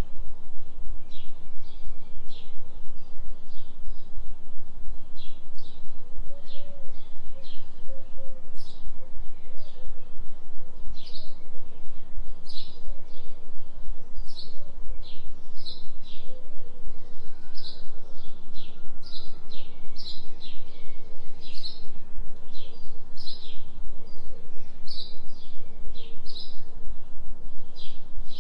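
Songbirds chirping over and over in a forest recording, laid over a constant low binaural-beat tone that is the loudest part of the sound.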